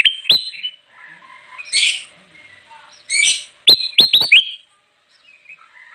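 A kutilang emas bulbul singing vigorously in a run of sharp chirps and whistles. The loudest part is a quick cluster of four downward-sweeping notes just under four seconds in.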